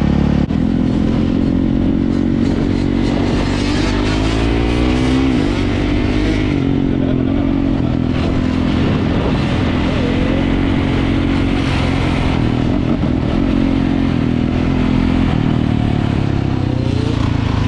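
Dirt bike engine running under throttle. Its pitch climbs for a couple of seconds a few seconds in, drops back, holds fairly steady, and rises briefly again near the end.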